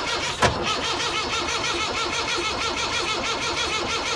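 Starter motor cranking a Perkins 4.203 four-cylinder diesel in a steady, even rhythm without it firing, with the injector pipe unions cracked open. A sharp click about half a second in. Fuel reaching the injectors is taken as a sign that the injection system is fine and the engine itself is probably at fault.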